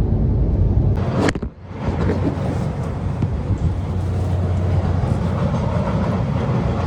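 Steady low road rumble of a car driving, cut off by a sharp click about a second in; after that a steady low hum with noise over it.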